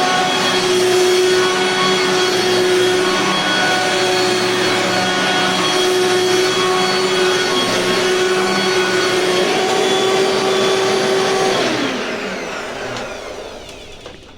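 7-amp Dirt Devil Impulse vacuum cleaner running at a steady whine. Near the end it is switched off and its motor winds down, the pitch falling as it fades.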